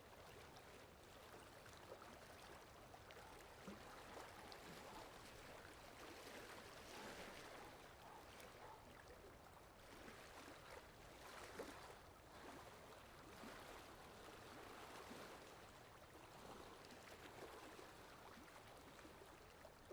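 Faint, steady running water like a flowing stream, used as a background water sound effect.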